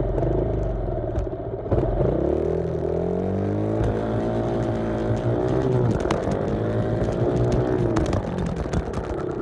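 Small off-road engine taking off hard from a standstill as in a race start: about two seconds in the revs climb steeply, drop briefly at an upshift and climb again, then hold before easing off near the end, with clatter from the ride.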